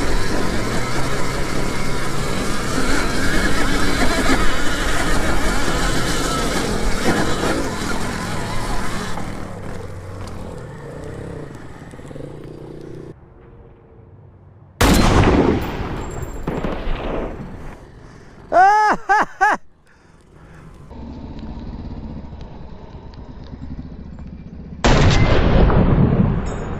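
Wind rush and trail-riding noise on the microphone, fading out, then a sudden loud bang about halfway through and another near the end, with a quick series of warbling pitched tones between them. The bangs fit gunshot sound effects.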